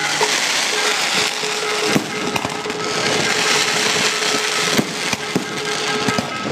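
Electronic fireworks going off in a dense, continuous crackle of firecracker-like cracks, with a steady tone held underneath.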